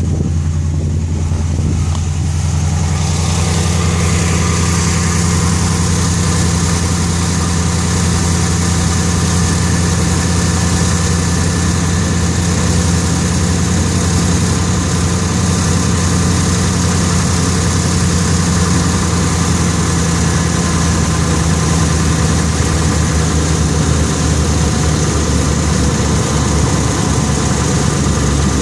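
Ram pickup's Chrysler Hemi V8 idling steadily just after a cold start, with a higher-pitched noise filling in over the first few seconds. The owner says the noise lasts about five minutes before quieting down, and does not take it for the usual Hemi tick or a broken exhaust manifold bolt.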